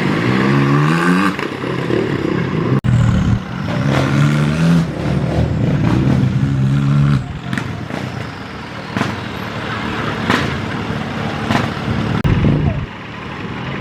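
Tractor engine revving hard under load, its pitch rising in several surges and easing back between them, with a few sharp knocks later on.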